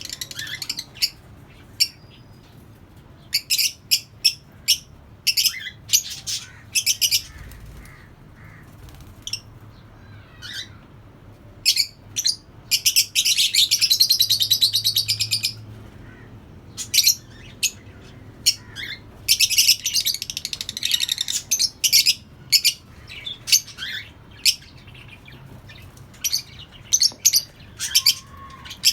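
A colony of lovebirds calling: many short, sharp, high chirps, with two longer bouts of rapid chattering about 13 and 20 seconds in.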